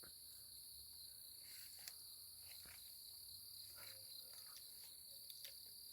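Faint, steady, high-pitched trilling of a night insect chorus, typical of crickets, with no break.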